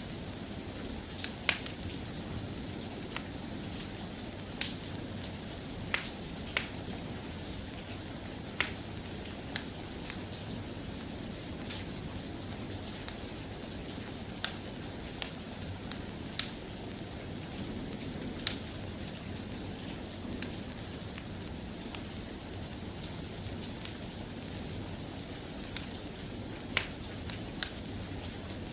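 Steady rain falling, with irregular sharp clicks and pops standing out above it every second or two.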